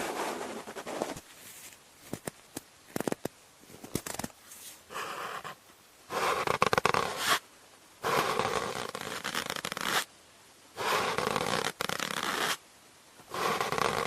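Cotton swab swirling round and round in the ear of a binaural microphone: close, noisy rubbing strokes of one to two seconds each with short gaps, after a few seconds of scattered light crackles.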